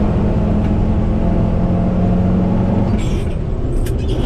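Combine harvester running steadily during corn harvest: an even engine and machinery drone, with a few brief ticks near the end.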